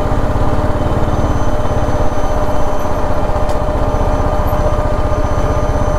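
BMW G 310 GS's single-cylinder engine running steadily under way, its firing pulses dense and even, with a steady thin whine above them.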